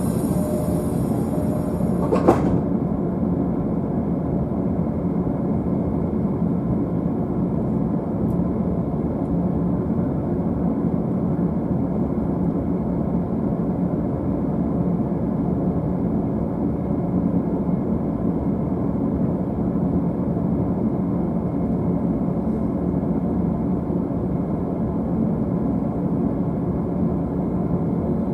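JR East E531 series electric train running, a steady rumble heard from the upper deck of a double-decker car. About two seconds in there is one sharp knock, as a high hiss cuts off.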